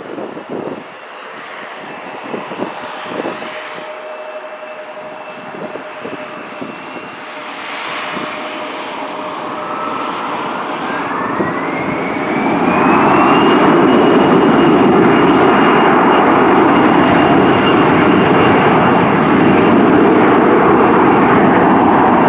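Jet airliner's engines growing steadily louder. About halfway through, their whine rises in pitch over a few seconds as the engines spool up. After that they hold a loud, steady roar and whine.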